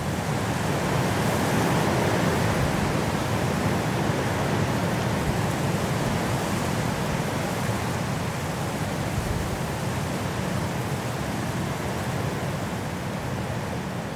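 High winds blowing through trees in a snowstorm: a steady rushing noise that swells a second or two in and slowly eases.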